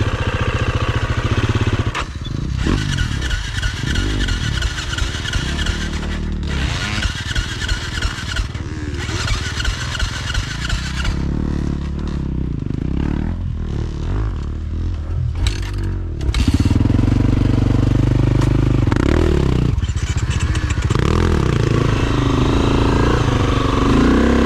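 Enduro dirt bike engine revving up and down as it is ridden, with scattered knocks and clatter; it gets louder and steadier about two-thirds of the way in.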